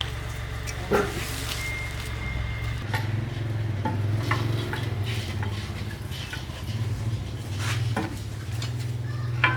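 A machine running with a steady low hum, with scattered sharp metallic clicks and knocks over it.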